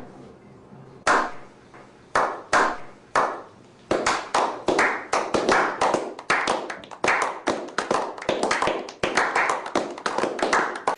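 Hands clapping: a few single claps, then steady clapping at about four claps a second from about four seconds in, in celebration of 500 subscribers.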